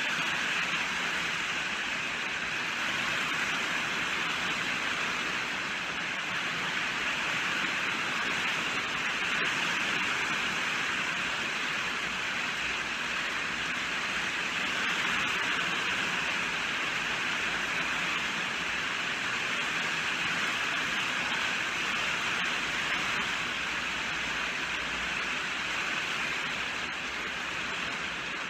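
Steady rainfall: an even hiss of rain, strongest in the upper-middle range, with no thunder or single drips standing out.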